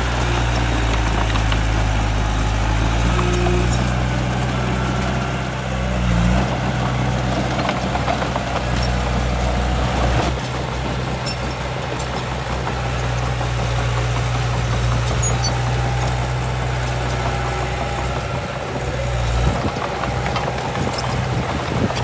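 Heavy diesel engine of earthmoving machinery running steadily, with a low hum and brief changes in load about six seconds in and near the end.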